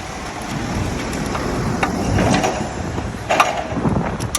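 Several sharp metal clicks and knocks as motorcycle parts and hand tools are handled during a roadside repair, over steady city traffic rumble.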